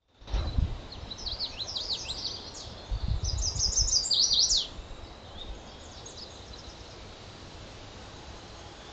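A songbird singing a quick series of high, down-slurred notes for about four seconds, over a steady hiss. Low rumbling bursts come near the start and again in the middle.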